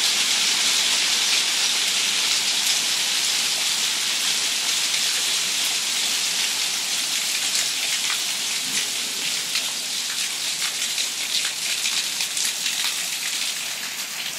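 Hailstorm with heavy rain: a dense, steady hiss of falling precipitation with scattered sharp individual impacts. The impacts come more often in the second half, while the overall downpour slowly eases.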